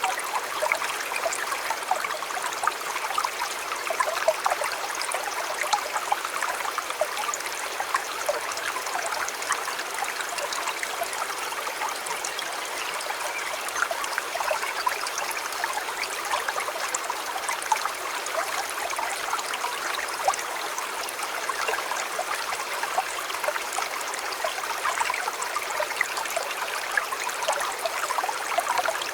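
Shallow river or stream flowing steadily, with a continuous babbling and trickling over stones and many small splashes.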